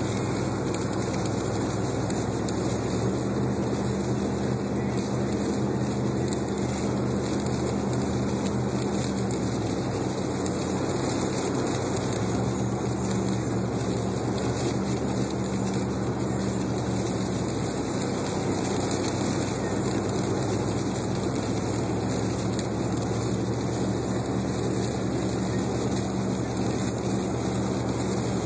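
Steady engine hum and road noise heard inside a car's cabin while driving on a snow-covered road; the engine's pitch shifts slightly a couple of times.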